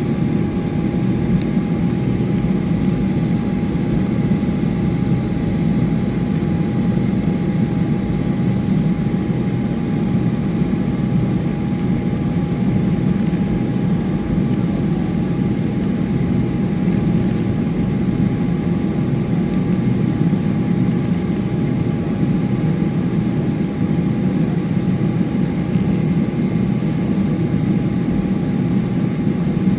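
Steady cabin noise inside a Boeing 757-200 with its jet engines running: an even low rumble with a thin, constant whine, holding level with no spool-up.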